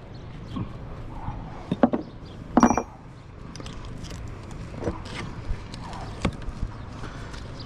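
Scattered knocks and clinks of brick and tools as an old brick chimney is taken down by hand. The loudest come about two seconds in, one with a short ringing clink.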